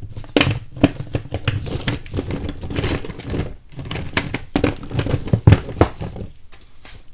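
Chunks of chalk being broken apart: an irregular run of sharp cracks and snaps with crumbling between them, thinning out near the end.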